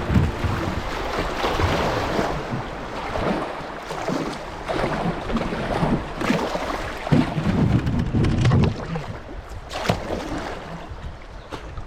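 Kayak running a shallow river riffle: water rushing and splashing around the hull, with wind buffeting the microphone and a few brief sharp sounds in the second half.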